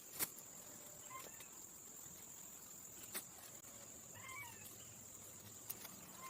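Quiet outdoor ambience: a steady high-pitched insect drone, like crickets, with a few sharp clicks and two faint short animal calls, one about a second in and another around four seconds in.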